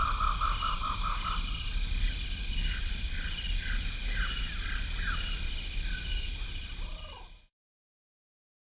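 Chorus of wild animal calls, rapid repeating chirps and short falling calls over steady high-pitched trilling, fading out about seven seconds in and then silence.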